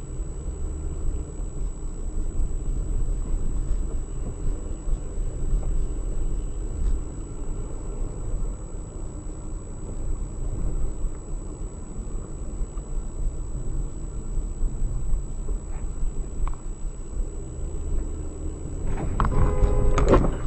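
Car driving, its engine and road noise a steady low rumble. About a second and a half before the end, a louder sound with a pitched tone comes in.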